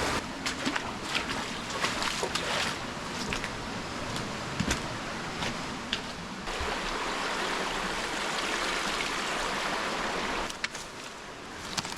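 Stream water rushing steadily over rocks, with scattered sharp knocks and scrapes; the rushing drops noticeably in level about ten seconds in.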